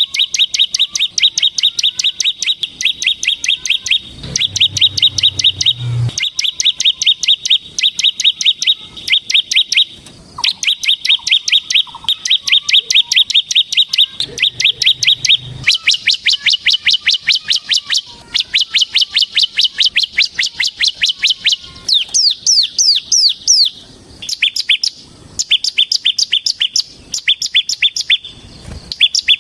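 Ciblek semi (bar-winged prinia) singing in long, fast rattling trills of sharp, evenly repeated high notes, the continuous 'ngebren' song prized by keepers. The trills are broken by brief pauses, and the notes turn into quick falling sweeps for a couple of seconds past the middle.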